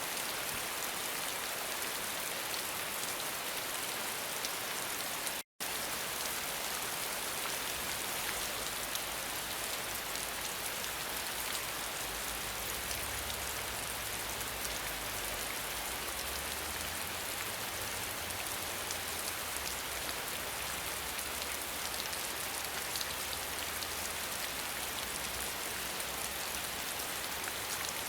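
Steady rain falling, a dense even hiss of drops, with a low rumble underneath from about eight seconds in. The sound cuts out completely for a split second about five and a half seconds in.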